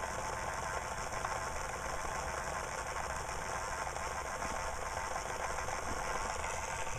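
A 1/6-scale ERTL John Deere Model E model engine being turned by a small 9-volt electric motor through a rubber-band belt, giving a steady, even mechanical whir with fine ticking from the model's moving parts.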